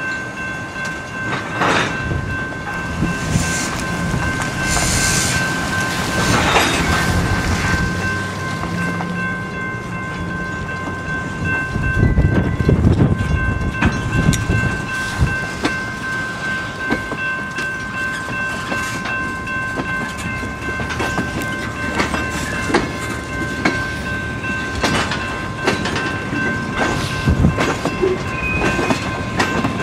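Huron & Eastern diesel freight train rolling past, its wheels clattering over the rails with a steady rumble that swells about twelve seconds in. Over it, a grade-crossing bell rings steadily.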